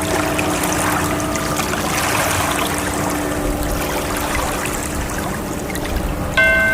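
Steady wash of ocean waves, with soft held musical tones underneath; a brighter tone comes in suddenly near the end.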